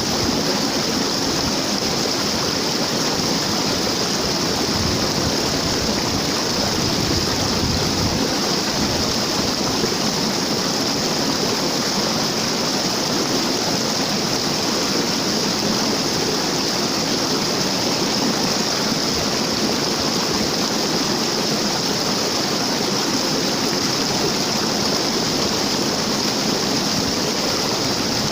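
Waterfall: falling water making a steady, even noise with no change.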